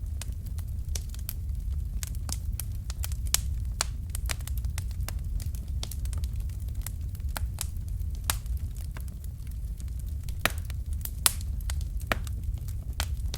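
Wood fire crackling: irregular sharp snaps and pops, a few louder ones, over a steady low rumble of the flames.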